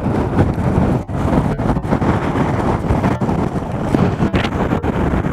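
Strong gusty wind buffeting the microphone: a loud, low rumbling roar that cuts out briefly several times.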